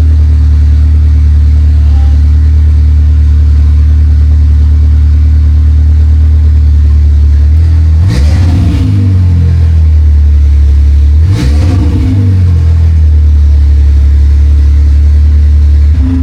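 Loud Mk7 Golf GTI 2.0-litre turbo four-cylinder idling through a new 4.5-inch downpipe with the exhaust not fully connected. It is blipped twice, about eight and eleven seconds in, the pitch rising and falling back each time.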